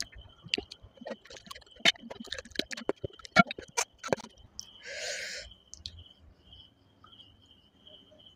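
Close-up mouth sounds of someone eating chicken by hand: wet chewing and lip smacks, many irregular sharp clicks for about four seconds, then a short hissing breath or slurp about five seconds in.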